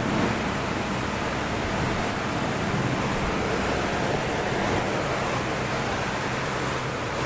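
Heavy tropical rain pouring down steadily, a dense even hiss of rainfall.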